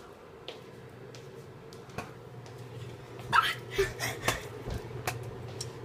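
Microwave oven running with a steady hum while a bag of microwave popcorn pops inside, the pops sparse and irregular with a quick run of several a little past halfway, as the kernels near the end of popping.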